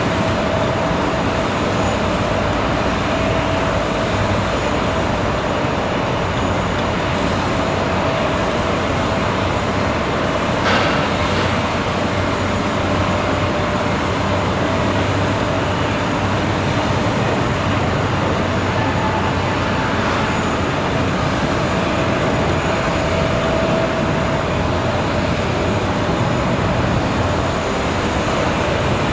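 Steady airport machinery noise: a continuous rumble and hiss with a steady high whine over it.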